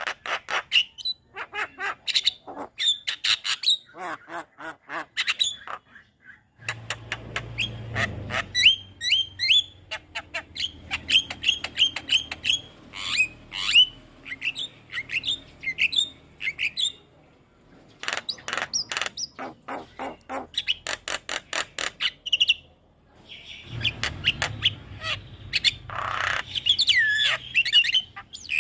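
Javan myna singing: fast runs of sharp chattering notes mixed with short whistled calls, broken by brief pauses twice.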